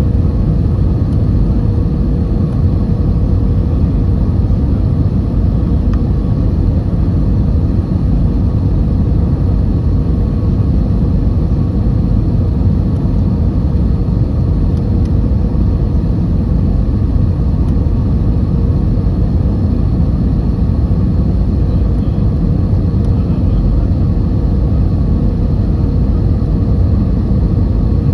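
Airbus A320 cabin noise: a steady low rumble of the engines and rushing air heard from inside the cabin, with a faint constant hum over it.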